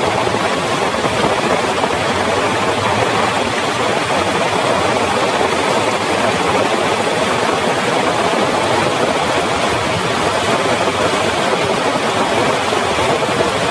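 Heavy rain pouring steadily: a dense, even hiss with no let-up.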